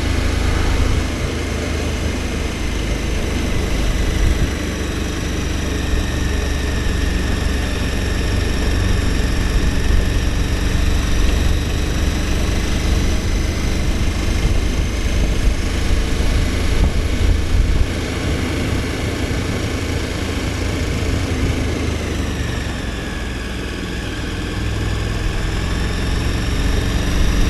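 KTM 1290 Super Adventure S's V-twin engine running at a steady cruise while the motorcycle is ridden. The engine pitch holds steady, dips slightly about twenty-two seconds in, then climbs back near the end.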